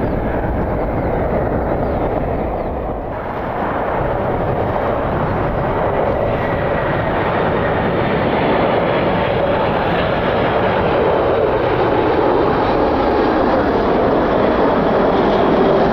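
Jet airliner engines running as the aircraft moves past, a steady rush that grows slightly louder, with a faint whine slowly falling in pitch over the second half. Gusty wind rumbles on the microphone.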